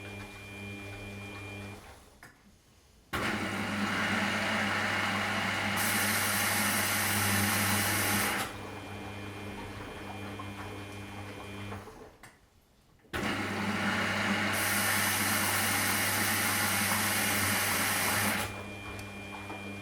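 Washing machine running a wash cycle: the motor hums steadily, stops briefly twice, and after each pause starts again with a louder rush of water and tumbling laundry for about five seconds before settling back to the hum.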